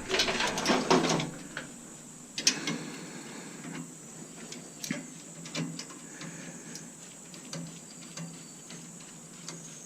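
Metal parts of a Bunn-O-Matic coffee maker being handled and pulled apart by hand: a busy spell of rattling in the first second, a sharp knock about two and a half seconds in, then scattered light clicks and knocks.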